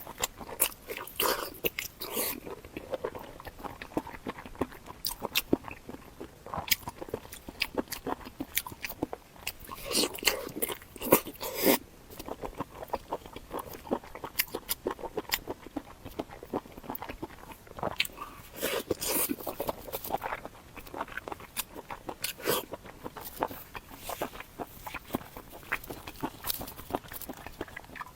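Close-miked biting and crunchy chewing of food, a steady run of wet crackles and crunches with louder bursts of bites now and then.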